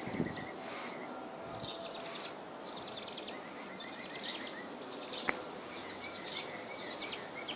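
Birds chirping in short, rapid high trills again and again over a faint background hum, with a single sharp click about five seconds in.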